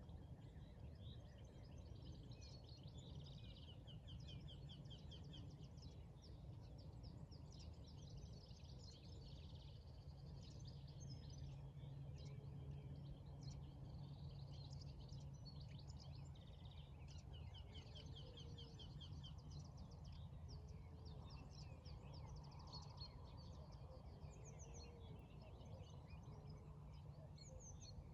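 Faint morning birdsong: several small birds chirping and trilling all through, over a steady low hum.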